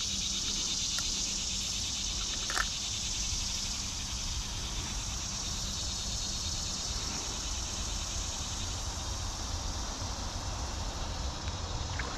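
Steady chorus of insects chirring high and continuously, over a low rumble of wind or handling noise, with a single sharp click about two and a half seconds in.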